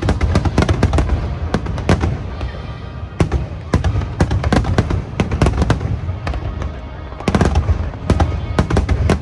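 Aerial fireworks shells bursting in rapid, overlapping volleys of sharp bangs and booms over a low rumble, easing briefly a little past the middle before a dense cluster again. Music plays underneath.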